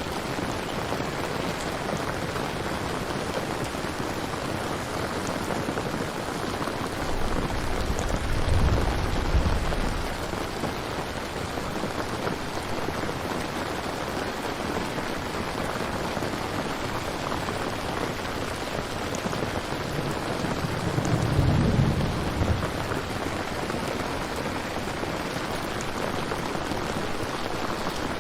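Steady heavy rain, with two low rumbles of thunder, one about a third of the way in and one about three quarters of the way in.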